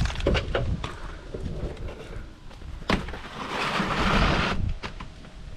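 Asphalt shingle being worked by hand: a few light knocks, a sharp tap about three seconds in, then a rasping scrape lasting just over a second.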